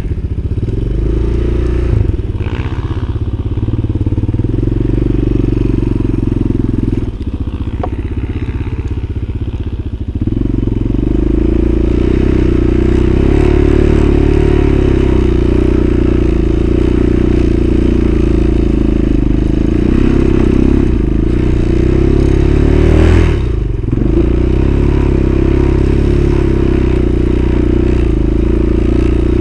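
Engine of a vehicle riding through snow, running steadily at high revs, with a lower, rougher stretch about seven to ten seconds in and a brief dip in revs about 23 seconds in.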